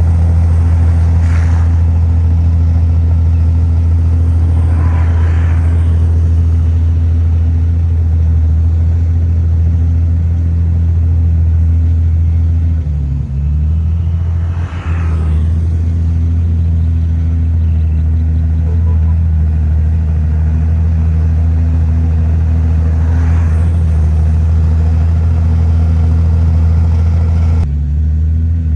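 Heavy diesel engine of a Komatsu bulldozer running steadily under load, a deep low hum that dips briefly about halfway through before picking up again.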